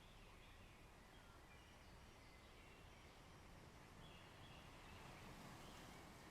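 Faint forest-and-shore ambience: a soft wash of waves that swells briefly about five seconds in, with faint bird chirps.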